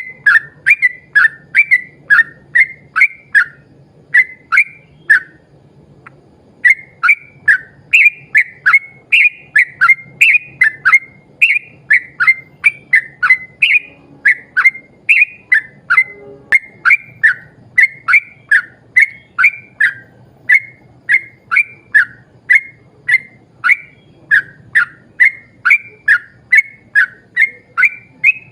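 Yellow-vented bulbul (trucuk) singing a long, rapid run of short, falling whistled notes, about two a second. There is one brief break about five and a half seconds in.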